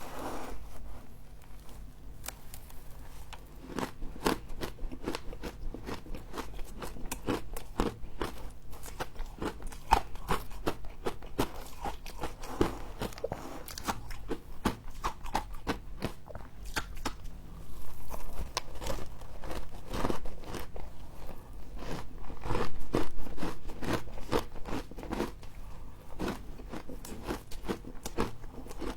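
Close crunching and chewing of humidifier frost: a continuous run of crisp crunches, several a second, as the frost is bitten and chewed.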